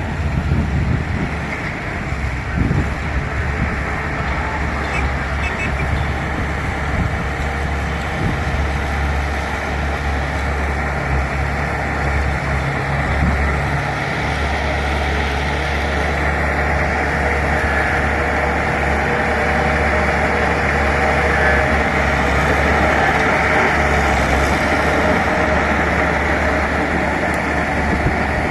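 Bulldozer's diesel engine running steadily, growing a little louder over the second half.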